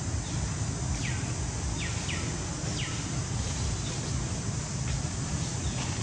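Bird chirps, each a short downward-sliding note, about six over the few seconds, over a steady low rumble.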